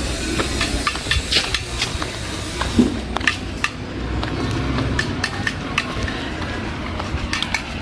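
Outdoor noise: a steady low rumble with many irregular sharp clicks and knocks.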